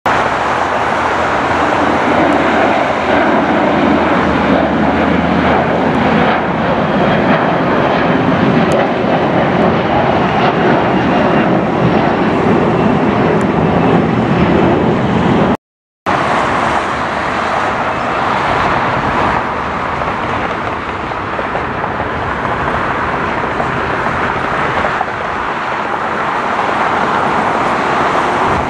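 Jet airliner noise, loud and steady, broken by a sudden cut to silence about halfway, after which similar loud engine noise resumes.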